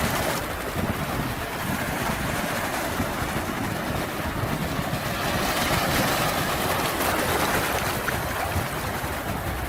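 Sea waves washing on the shore in a steady rushing noise, swelling a little louder about halfway through.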